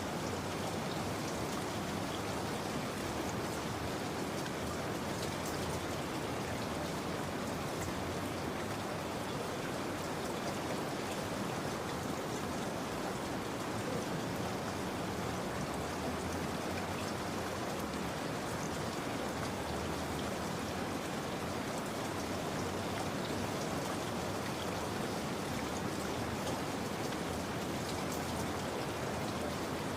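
Steady rain falling: an even, unbroken hiss with faint scattered drop ticks on top.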